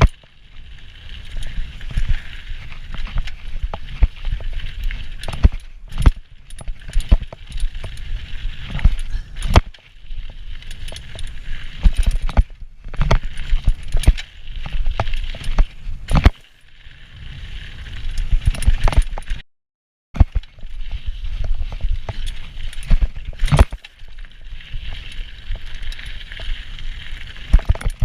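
Hardtail mountain bike ridden fast down a rough dirt trail: tyres rumbling, with constant rattles and knocks from the chain and frame over bumps. The sound cuts out briefly about two thirds of the way through.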